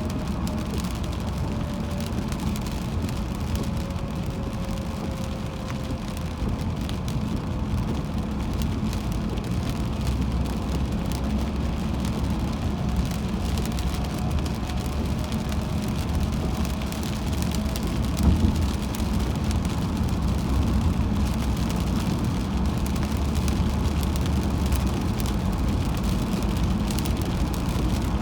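Car driving on a rain-wet highway: a steady low road rumble with rain hitting the car. A faint tone slides down in pitch over the first few seconds.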